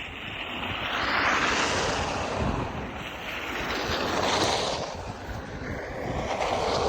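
Storm wind gusting, a rushing hiss that swells and fades three times, with wind buffeting the microphone in a low rumble.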